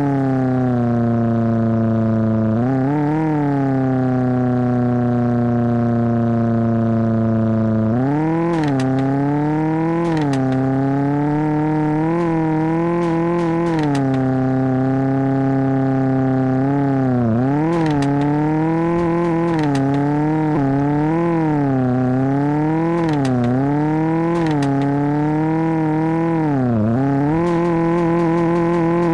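Tofaş car engine running and being revved, its pitch settling slowly early on, then rising and falling in repeated short blips about once a second through the second half.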